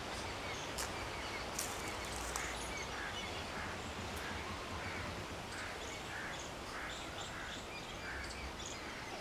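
Outdoor ambience with a steady hiss, and a bird calling in short notes repeated about twice a second from a couple of seconds in. A few sharp clicks come before the calls begin.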